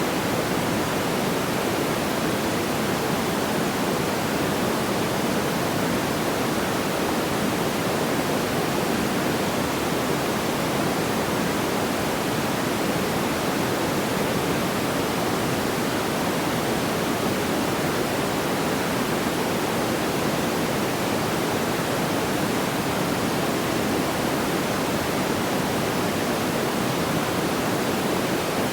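Steady, even rushing noise, unchanging throughout and strongest in the low-middle range, with no distinct crackles or pops.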